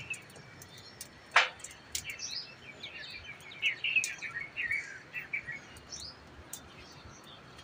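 Small birds chirping and twittering in the trees, with a busy run of quick chirps around the middle. A single sharp click about a second and a half in is the loudest sound.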